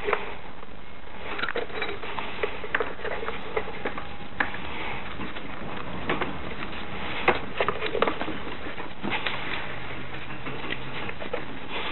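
Irregular clinks and knocks of hand tools and metal parts being handled while a scooter engine is unbolted, over a steady hiss. The sharpest taps come about four and seven seconds in.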